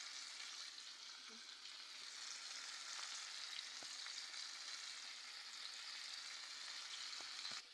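Flour-coated chicken pieces frying in hot oil in a pot: a steady sizzle with a few faint pops.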